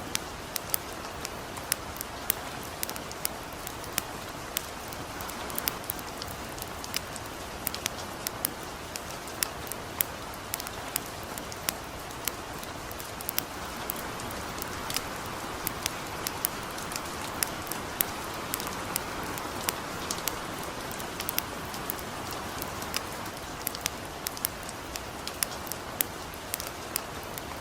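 Light rain falling steadily, mixed with a wood campfire burning, its sharp pops and crackles scattered irregularly throughout.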